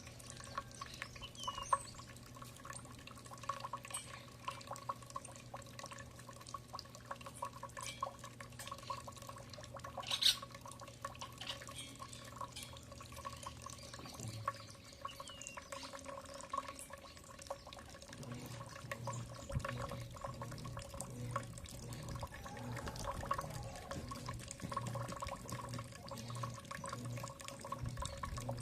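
Small birds feeding: a scatter of small irregular pecking clicks and taps, with a few short chirps and one sharper call about ten seconds in, over a steady low hum.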